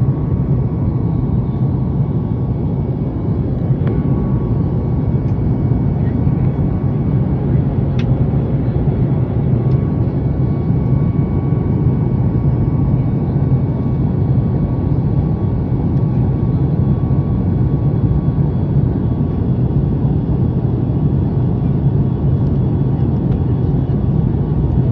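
Steady cabin drone of a Boeing 737 MAX 8 in flight: the even rush of its CFM LEAP-1B engines and airflow, with a low hum underneath, heard inside the passenger cabin.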